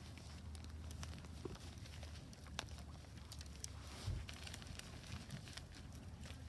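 Wood fire crackling in a Solo Stove Ranger fire pit: irregular small pops and snaps over a steady low rumble, with one soft thump about two-thirds of the way through.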